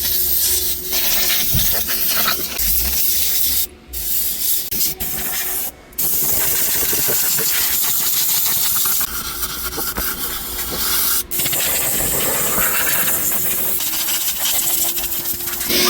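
A car-wash high-pressure spray gun hissing steadily, with a faint machine hum underneath. The spray stops briefly twice, a few seconds in, as the trigger is let go.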